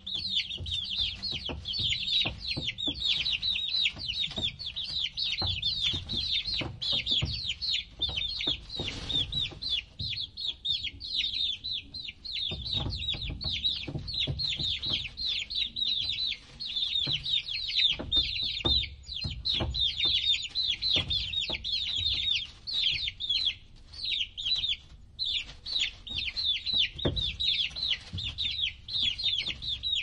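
A flock of chickens clucking and calling, over a dense, continuous run of short high-pitched chirps.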